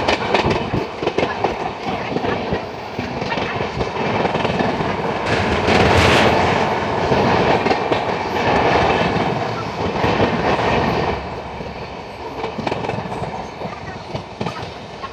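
Two passenger trains running side by side on adjacent tracks, heard from an open coach window: steel wheels clattering over rail joints with a rush of air. Loudest about six seconds in, easing off after about eleven seconds.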